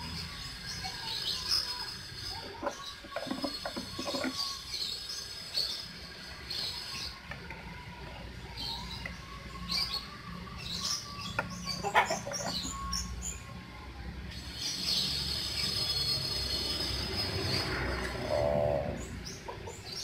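Birds chirping in many short high calls, over a steady low rumble, with a few sharp clicks from handling; the loudest click comes about twelve seconds in.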